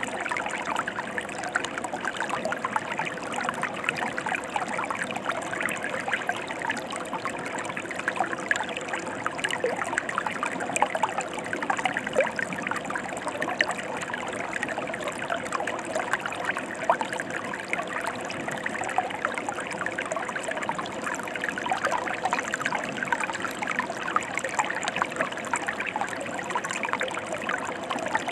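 Mountain river flowing over rocks: a steady rushing babble full of small splashes, with no break or change.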